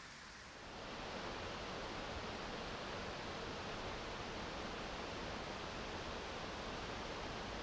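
Waterfall rushing: a steady, even hiss of falling water that gets louder about a second in.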